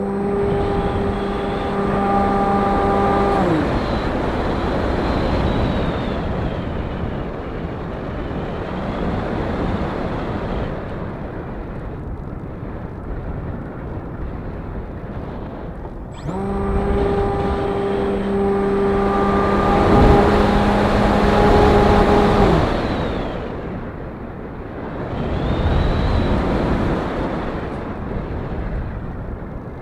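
Wind rushing over the microphone, with an RC model plane's motor and propeller running twice as a steady hum, each spell dropping away in pitch as the throttle is cut: once about three seconds in, and again after running from about sixteen to twenty-two seconds.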